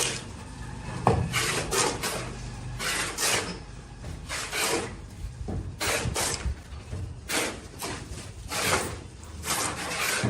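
Irregular scraping strokes of a hand tool on a hard, gritty surface, about one or two a second.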